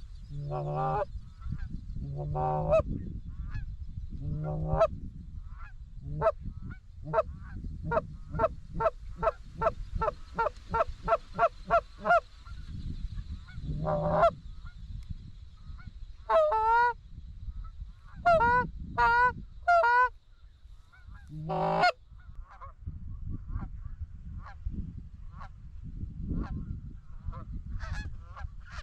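Geese honking: scattered honks, then a fast run of short honks at about two or three a second, followed by a few longer wavering calls, over a low rumbling background.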